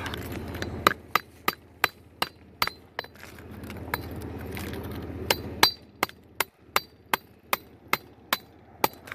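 Hammer striking metal on a magnet-fishing magnet's fitting to seat it so it won't come off. The strikes are sharp and come about three a second, some with a short metallic ring, with a pause of about a second and a half midway.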